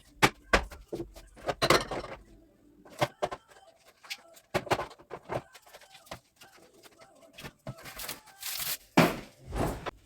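Irregular knocks and clatter of household items being handled and set down, mixed with rustling and crinkling of packaging. A longer rustle comes about two seconds in, and a louder one near the end.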